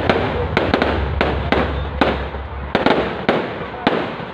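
Fireworks display going off in a rapid, irregular series of sharp bangs, about two or three a second, with dense crackling between them.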